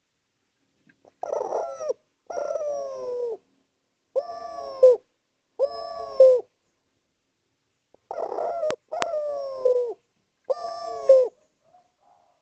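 A derkuku (spotted dove) cooing: about seven separate coo phrases in a row, each dipping slightly in pitch, with short pauses between them. A couple of sharp clicks come near the end.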